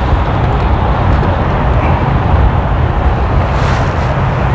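Strong wind buffeting the microphone: a loud, steady rumble with rushing noise over it.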